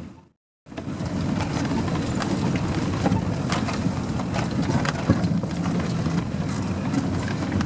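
Off-road vehicle engine running steadily, with scattered clicks and knocks over it, after a brief cut to silence at the very start.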